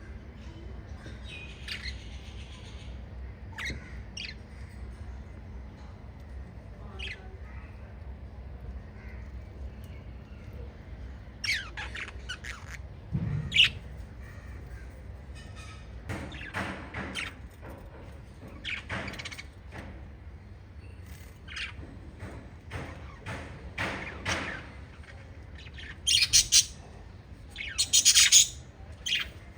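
Small group of pet budgerigars chirping and squawking in short scattered calls, sparse at first, then busier and louder, with the loudest squawks near the end. A steady low hum runs underneath.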